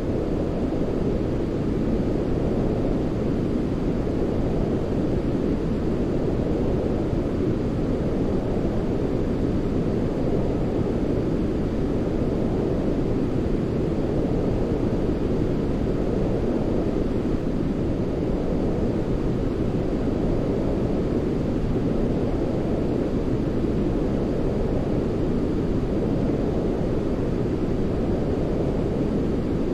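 Steady, deep sleep-aid noise with its weight in the low end, closer to brown noise than hissy white noise, with faint slow swells and no breaks.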